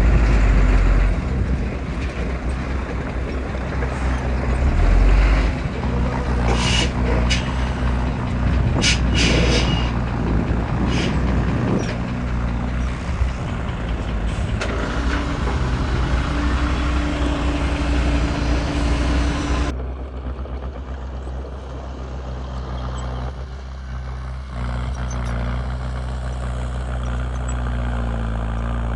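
Heavy diesel machinery running steadily, a bulldozer and dump truck at work, with a few sharp metallic clanks in the first half. About two-thirds of the way through, the hissing, clattering upper layer stops abruptly and a lower engine drone goes on.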